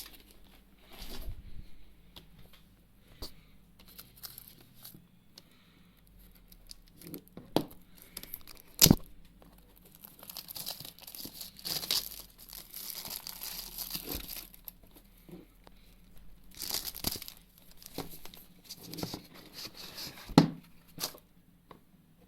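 Packaging being opened: tearing and plastic wrap crinkling in irregular bursts, with handling clicks and knocks, the sharpest about 9 s and 20 s in.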